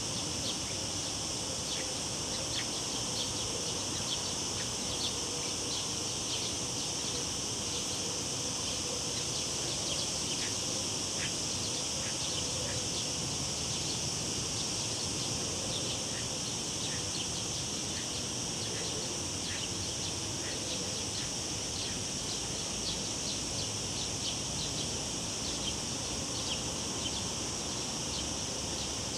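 Cicadas buzzing in a steady, continuous high drone, with short bird chirps dotted through it over a low, even rush of river water.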